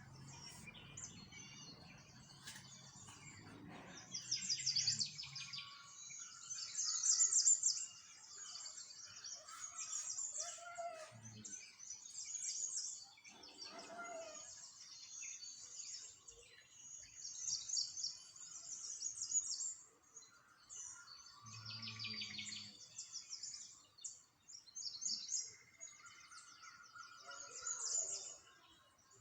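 Small songbirds chirping and singing, many high, fast trilled chirps overlapping one another.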